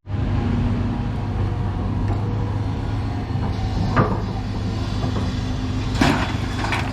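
An engine running steadily with an even low hum, and a couple of short knocks about four and six seconds in.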